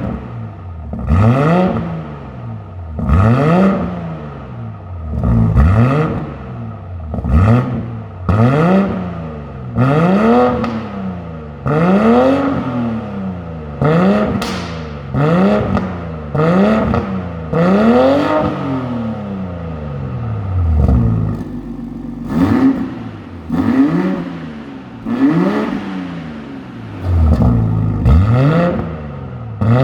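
BMW X5 40i's turbocharged inline-six blipped repeatedly through a valved aftermarket exhaust, each rev rising and falling in about a second and a half, with a brief pause about twenty seconds in before the revs resume.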